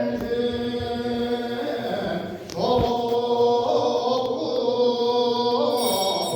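Buddhist ritual chanting, voices held on long sustained notes, with a brief break about two and a half seconds in.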